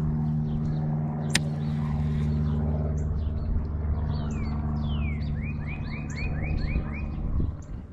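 A songbird singing: two falling whistled notes, then a quick run of about seven short repeated notes, around three a second. Under it runs a steady low motor hum that fades out near the end, with one sharp click a little over a second in.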